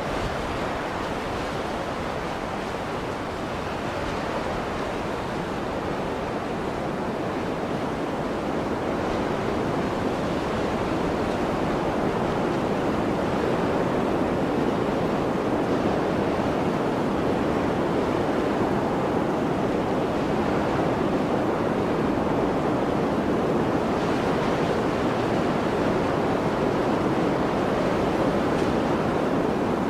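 Blizzard wind blowing as a steady rushing noise, swelling a little louder about ten seconds in.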